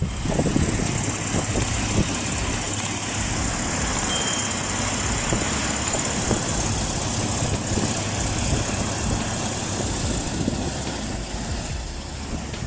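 Truck engine running steadily, with a continuous high hiss over a low rumble.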